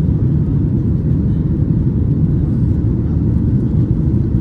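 Steady low cabin rumble inside a Boeing 737-800 airliner in flight: engine and airflow noise heard from a window seat.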